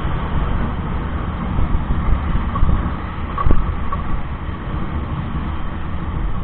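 Motorcycle riding along a road: steady low engine and road rumble mixed with wind buffeting on the microphone, with a brief knock about halfway through.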